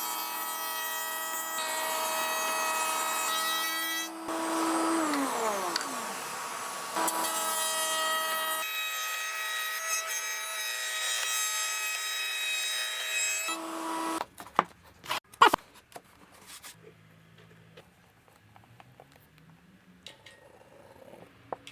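Electric woodworking power tool running with a steady motor whine. It is switched off and winds down about four seconds in, runs again, and cuts off about two-thirds of the way through. A few sharp knocks follow.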